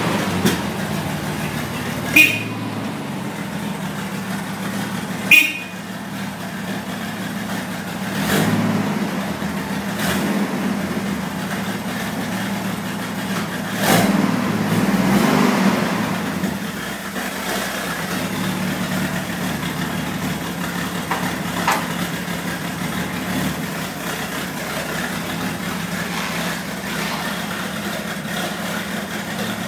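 Toyota FJ40 Land Cruiser's inline-six petrol engine idling steadily. Two short, sharp sounds come about two and five seconds in, and the engine swells briefly about halfway through.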